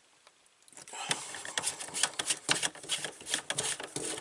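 Rapid, irregular clicking and rattling of parts being handled at close range, starting about a second in.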